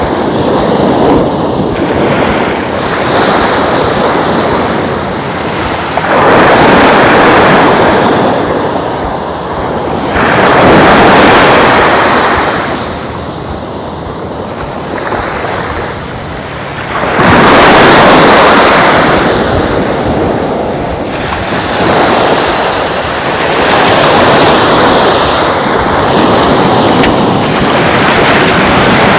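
Gulf of Mexico surf breaking and washing up the beach, a rushing roar that swells and fades with each wave, every four to six seconds.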